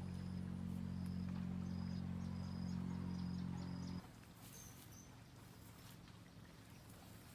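A motor running with a steady, even low hum that cuts off abruptly about four seconds in. Short high chirps repeat over it, about two a second.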